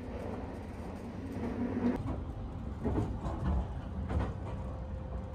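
Sunrise Seto sleeper train running, heard from inside a compartment: a steady low rumble with a few short knocks and clatters between about two and four and a half seconds in.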